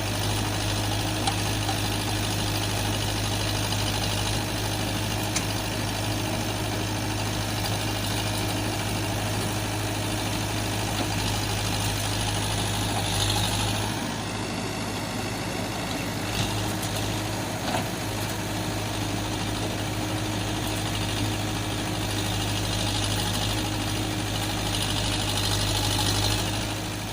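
A motor vehicle engine idling steadily, with a slight drop in level about halfway through.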